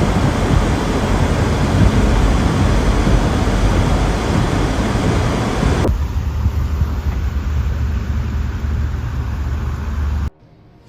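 Strong wind noise buffeting the microphone in a snowstorm. About six seconds in it cuts abruptly to a quieter, steady low vehicle rumble, which stops suddenly near the end.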